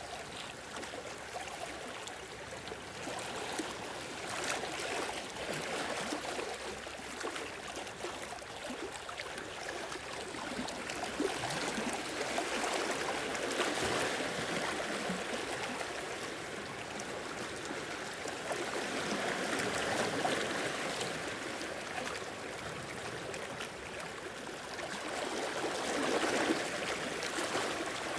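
Sea waves washing in and draining back, an even water noise that swells and fades every several seconds.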